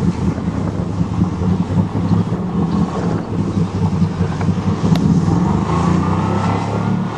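1988 Chevrolet pickup truck's engine running steadily as the truck drives into deep water, where it gets swamped.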